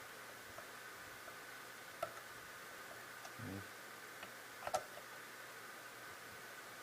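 A few faint sharp clicks and small taps over a steady faint high hum, with a short low hum about halfway through.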